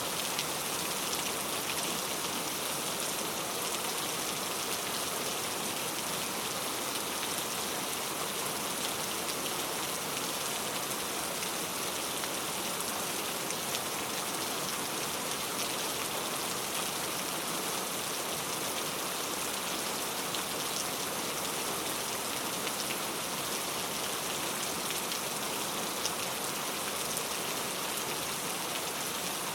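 Steady rain falling, an even hiss of many drops pattering on a surface, with no change in intensity.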